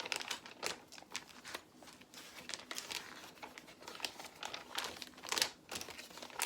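Plastic Lego bricks being handled and pulled apart, with irregular small clicks and rattles, the loudest a little past five seconds in.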